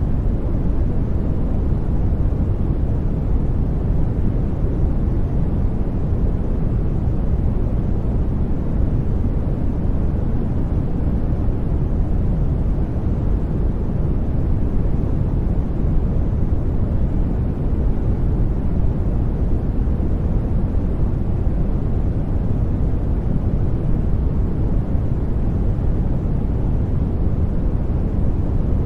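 Steady sleep noise, heavy in the low end and dull at the top, closer to brown noise than bright white noise. It runs unchanging, with no tones or events.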